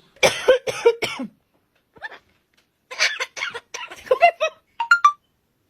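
A run of coughs, three in quick succession and then a longer string of short coughs, ending with a couple of brief high chirps near the end.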